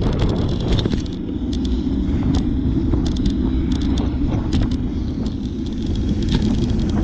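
Bicycle in motion: a steady low rumble of riding with a hum that wavers slightly, broken by frequent sharp rattling clicks.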